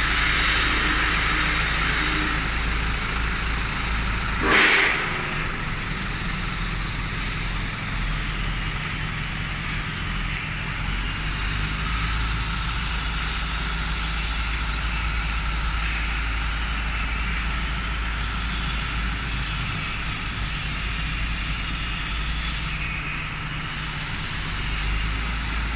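A steady engine running, with a constant low hum, and a brief louder rush about four and a half seconds in.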